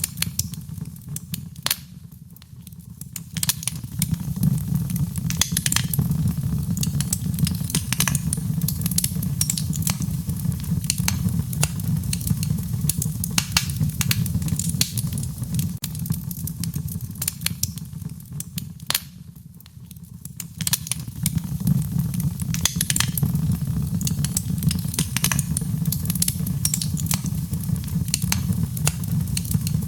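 Wood fire burning in a fireplace: irregular sharp crackles and pops over a steady low rumble of the flames, which dips quieter briefly twice.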